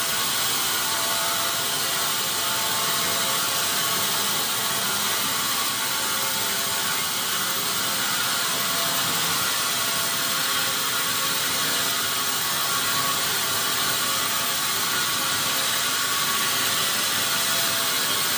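Sawmill machinery running steadily: a dense, even mechanical noise with several steady hums through it and no distinct impacts.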